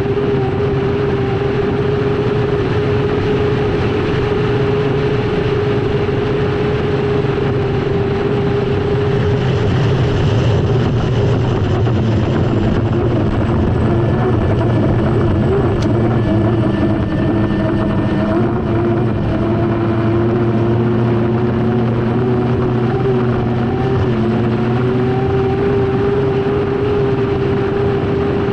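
Lycoming T55 turbine engine of an unlimited hydroplane at racing speed, heard onboard: a loud steady whine over a continuous rush of noise. The whine sags in pitch about a third of the way in and climbs back near the end.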